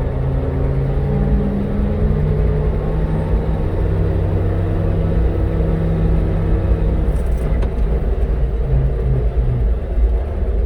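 1969 Chevrolet fire truck's engine running as the truck drives, heard from inside the cab as a steady low rumble. Its engine note breaks up near the end.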